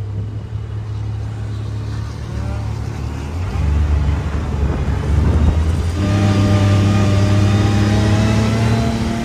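Side-by-side UTV engine running and revving on the dunes. The engine note changes about three and a half seconds in, then grows louder with its pitch slowly rising from about six seconds, as the machine pulls under power.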